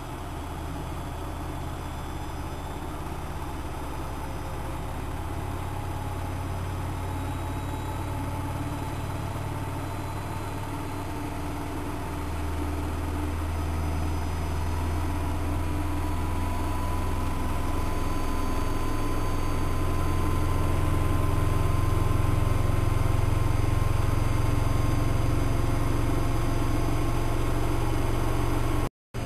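Siemens Siwamat 6143 washing machine running with a steady low hum and a thin whine that slowly rises in pitch while the sound grows louder: the drum speeding up, as in a spin. It cuts off abruptly near the end.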